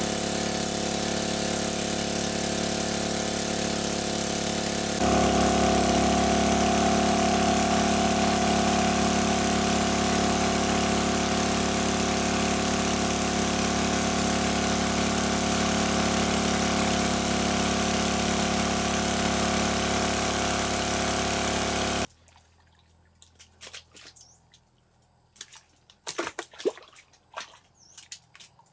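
A small engine runs steadily, stepping up in level about five seconds in. It cuts off abruptly a few seconds before the end, leaving faint scattered ticks and small splashes of water.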